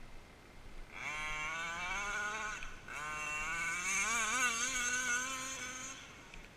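29cc two-stroke reed-valve petrol engine of an HPI Baja 1/5-scale RC car revving hard in two runs. The pitch climbs in the first run, cuts off briefly, then climbs again and wavers up and down as the throttle is worked, before dropping away near the end.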